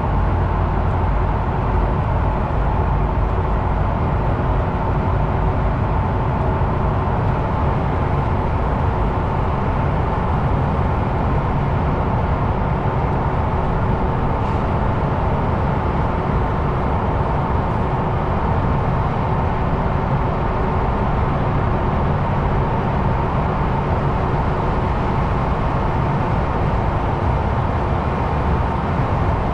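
DAF XF truck driving along at a steady pace: constant engine and road noise with a faint steady whine.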